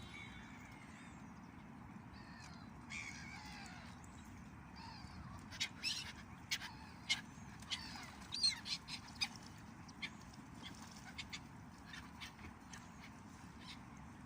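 Ducks and other birds calling by a river: a scatter of short, sharp calls and a few chirps, busiest in the middle, over a steady low background noise.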